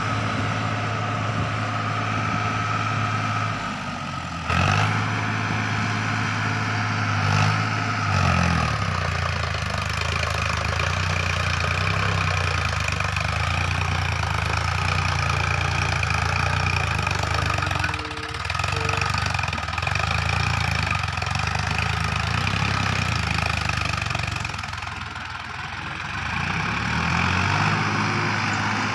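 Sonalika tractor's diesel engine running steadily. Its speed shifts a few times: it picks up about four seconds in, drops back around eight seconds, then sags and rises again near the end.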